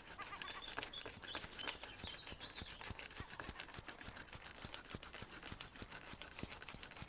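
Stiff bristle brush scrubbing a paraffin-soaked motorcycle chain in quick back-and-forth strokes, a rapid, even scratching several strokes a second.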